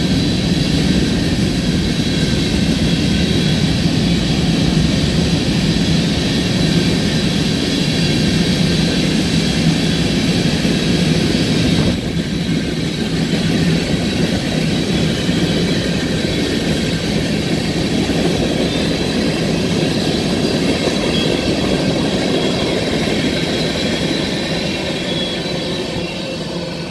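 Freight train of covered hopper cars rolling past: a steady rumble and clatter of steel wheels on rail, with a thin high tone over it. It eases slightly about halfway through and fades near the end as the last cars go by.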